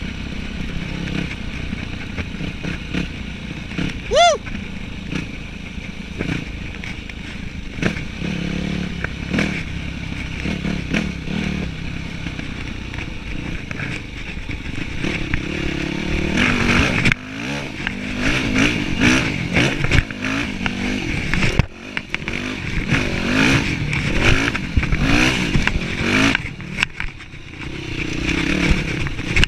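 Yamaha WR dirt bike engine heard from the rider's helmet camera, running fairly steadily at first, then from about halfway through revving up and down again and again as the bike is ridden over the trail, with short knocks among the engine sound. A brief high rising chirp sounds about four seconds in.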